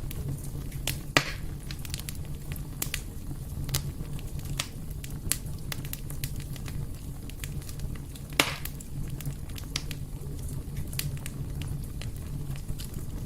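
Wood fire burning in a fireplace, crackling with frequent small pops over a steady low rumble, and two louder pops, about a second in and again about eight seconds in.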